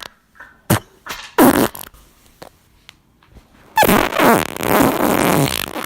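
Farts: a short one about a second in and another soon after, then a long drawn-out one in the last two seconds that sinks in pitch.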